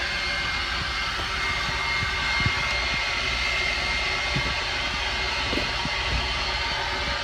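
Car wash machinery running steadily: a continuous rushing noise with a high, even whine over a low rumble, and a few light knocks.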